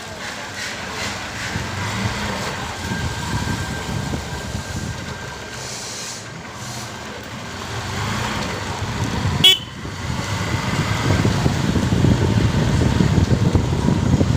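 Road traffic and vehicle engine noise heard while riding a motorcycle. There is a short, sharp horn toot about two-thirds of the way through, and the rumble gets louder after it.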